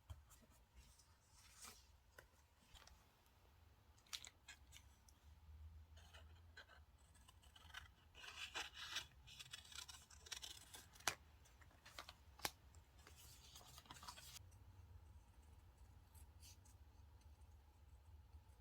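Scissors cutting paper, faintly: a run of short snips and rustles with a couple of sharp clicks, stopping about three-quarters of the way through.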